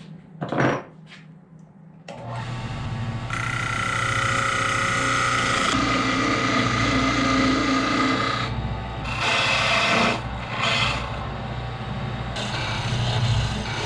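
A short knock, then about two seconds in a wood lathe motor starts and runs with a steady hum. A turning tool cuts into the spinning wood spindle, first in one long pass, then in a few shorter cuts near the end.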